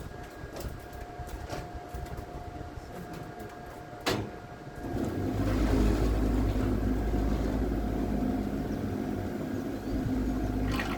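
A click, then about a second later a motor starts and keeps running with a steady low hum.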